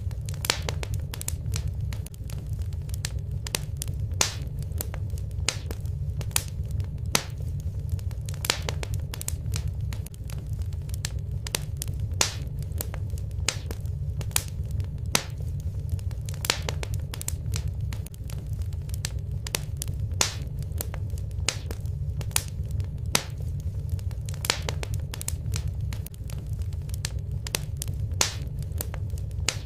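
Fireplace fire crackling, with frequent sharp, irregular pops over a steady low rumble.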